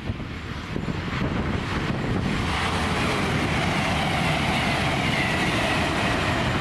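Grand Central Class 180 diesel multiple unit passing at speed. Engine and wheel noise builds about two seconds in, with a high whine that slowly falls in pitch as the train goes by.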